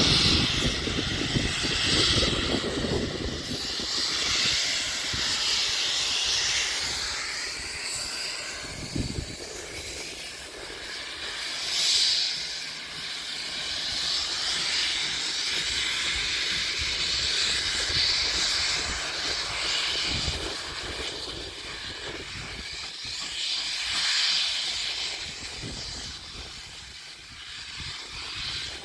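Steam train passing: a steady hiss of steam that swells every few seconds, over a low rail rumble that is strong at first and fades after a few seconds.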